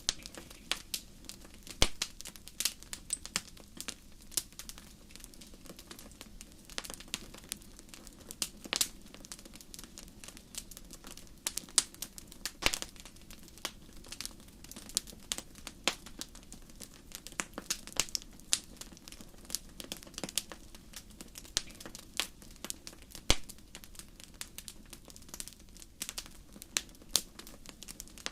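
Campfire crackling: burning wood giving irregular sharp snaps and pops, several a second with an occasional louder one, over a soft steady low rush of the flames.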